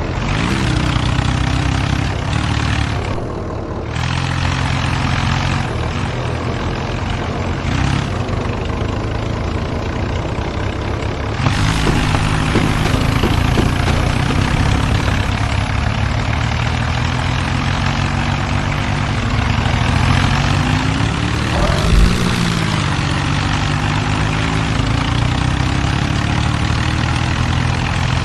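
Diesel tractor engines running hard under heavy load as two tractors pull against each other in a tug of war, changing abruptly a few times. Around twenty-two seconds in, the engine speed rises and then falls.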